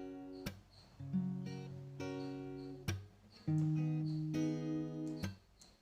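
Background acoustic guitar music: strummed chords struck every second or two and left to ring out.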